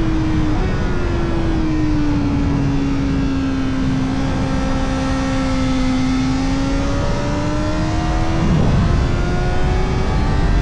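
Kawasaki Ninja ZX-4RR's 399 cc inline-four running at high revs through an Arrow Indy Race Evo titanium exhaust with its dB killer fitted, over wind rush. The engine note sags slowly for several seconds, breaks briefly about seven seconds in, then climbs steadily.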